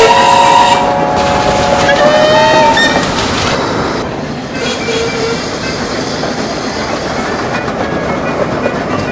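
Railway train sound: a multi-note train whistle sounds for about the first three seconds and gives a short toot around five seconds in, then the train runs on with wheels clicking over rail joints.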